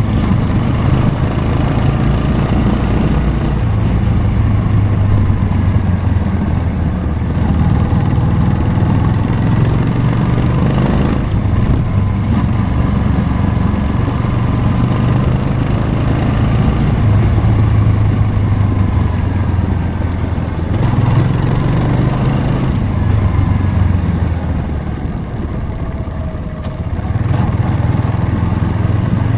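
Motorcycle engine running under way, its note rising and falling with the throttle. It eases off briefly near the end, then picks up again.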